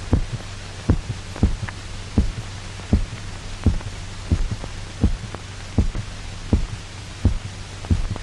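A dog's heartbeat, still beating while its blood is drained: a regular lub-dub thump repeating about every three-quarters of a second over a steady low hum.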